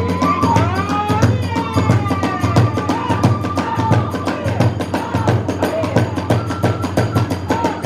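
Hiroshima-style kagura accompaniment: a bamboo transverse flute plays a sliding, arching melody over fast, steady drumbeats and clashing hand cymbals.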